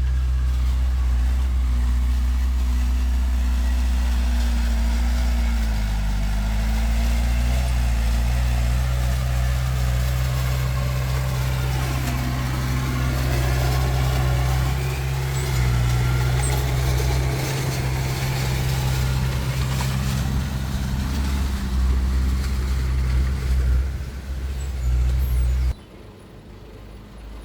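Heavy diesel engine of earthmoving machinery running steadily under load, with a brief change in pitch about six seconds in. The sound drops away abruptly a couple of seconds before the end.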